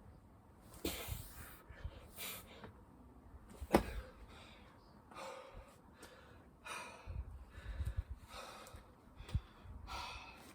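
A person breathing hard in loud, repeated gasps and exhales from the exertion of burpees and chin-ups, with a few sharp thumps, the loudest about four seconds in.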